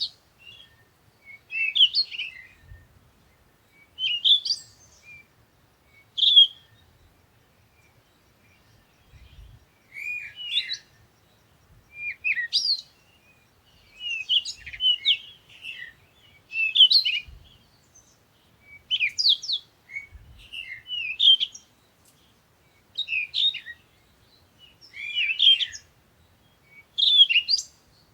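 A bird singing short chirping phrases, repeated about every two seconds with one longer pause partway through.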